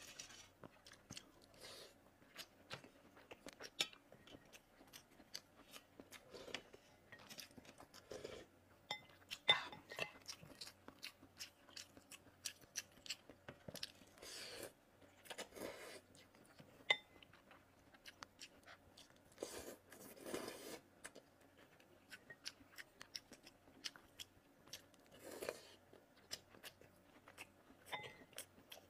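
Close-miked eating sounds: chewing and slurping glass noodles in chili broth, with many quick wet mouth clicks and a few longer slurps in the middle.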